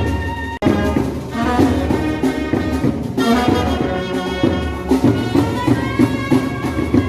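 Indian wedding brass band (band baja) playing a tune, with horns over a steady drum beat. The sound cuts out for an instant about half a second in, then the band plays on.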